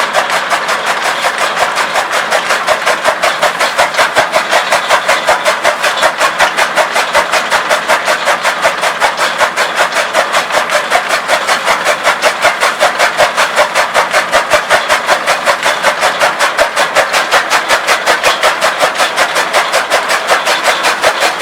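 Tractor-driven chaff cutter (tokka machine) running, powered by a Massey Ferguson 385 tractor, with a steady rhythmic chopping beat about five times a second over the engine.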